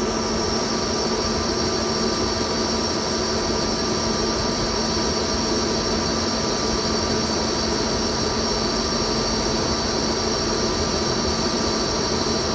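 CNC lathe running steadily while turning a long pin: an even machine hum with a steady high whine on top.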